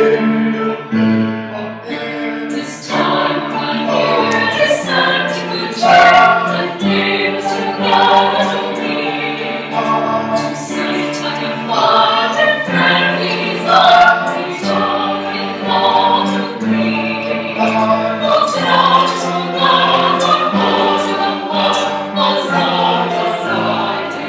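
A group of voices singing a song together in parts, with held notes.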